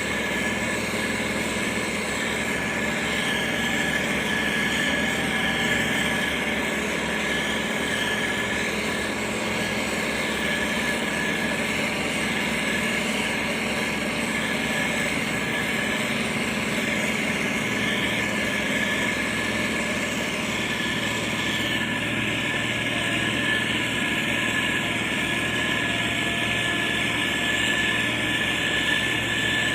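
Motor grader's diesel engine running steadily, with a steady high whine over the engine noise.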